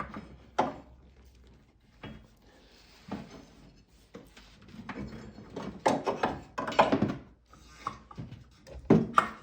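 Clicks and knocks of strut-mount and shock parts being handled and pulled apart by hand, with a quick run of them about six to seven seconds in and another just before the end.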